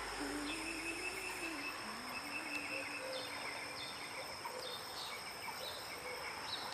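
Outdoor ambience: scattered short bird chirps over a steady high insect-like drone. A low, wavering hum, like a person humming, trails off about two seconds in.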